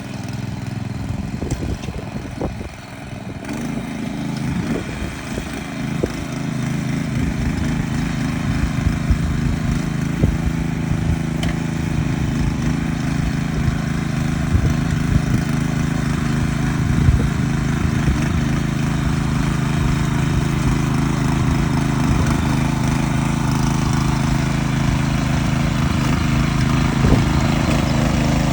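Small engine of a motor hoe (walk-behind tiller) running steadily under load, with scattered short knocks; it dips briefly a few seconds in, then grows louder and holds steady.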